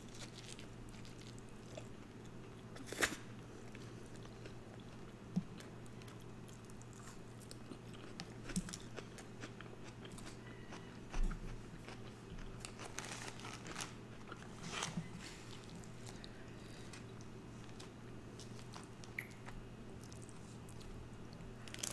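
Close-miked eating sounds: chewing a bite of cheeseburger and forkfuls of sauce-covered fries, with soft wet mouth sounds and scattered sharper clicks and crunches. A faint low hum runs underneath.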